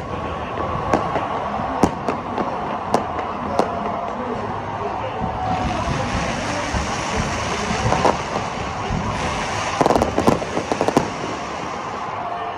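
Fireworks going off: sharp bangs about a second apart, then a steady hiss, and a quick run of crackling bangs about ten seconds in.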